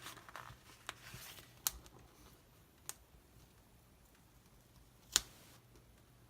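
A few small, sharp clicks and taps from handling paper sticker sheets and pressing stickers onto a planner page, with the loudest click about five seconds in.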